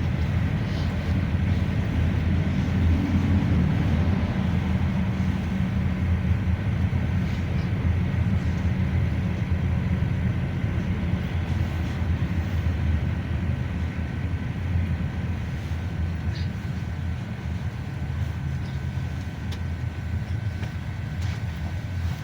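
Cabin noise inside a GAZelle Next minibus on the move: a steady low engine and road rumble that eases slightly toward the end, with a few light rattles.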